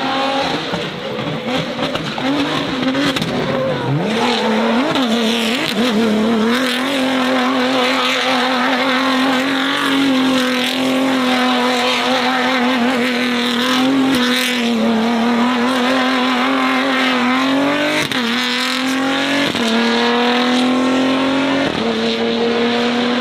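Racing car engine revving up and held at high, wavering revs. Near the end it accelerates with three upshifts, each a quick drop in pitch followed by a climb.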